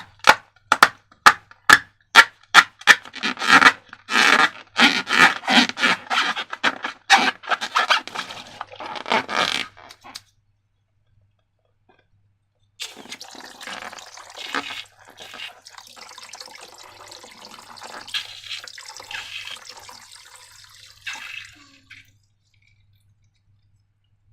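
Slime being worked by hand: a quick run of sharp, wet clicks and pops for about ten seconds. After a pause, a softer liquid squishing sound follows for several seconds.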